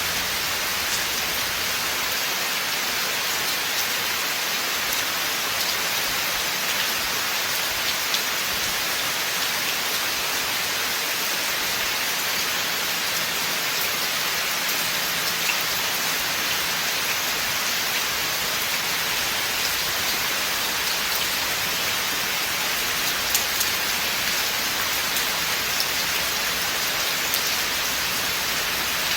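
Steady rain falling in a forest, an even hiss with scattered individual drops ticking on nearby surfaces.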